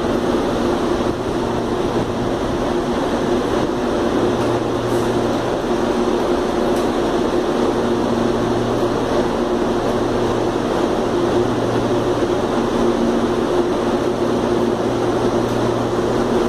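Electric commuter trains at a station platform: a steady hum with two constant low tones, while a CPTM train pulls out and moves off down the track.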